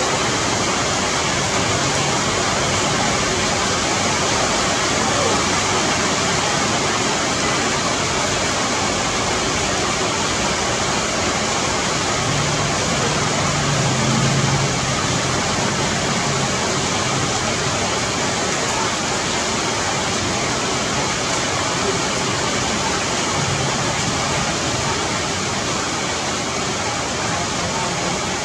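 Steady rain falling on dense forest foliage: an even, unbroken hiss of drops on leaves.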